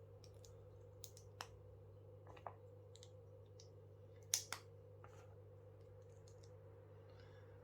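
Plastic Lego pieces being handled and pressed together: a few faint scattered clicks and one sharper click about four seconds in, over a steady low hum.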